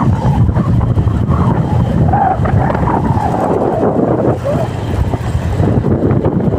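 Wind buffeting the microphone on a moving ride, a loud steady low rumble, with faint snatches of voice under it.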